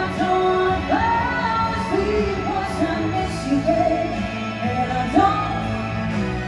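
A singer singing a melody over backing music, with held notes that slide up into each pitch.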